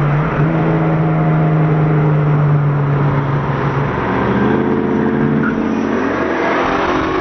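Twin-turbo Mustang's engine pulling hard under throttle during a street race, heard from inside the car, with its pitch pattern changing about four seconds in.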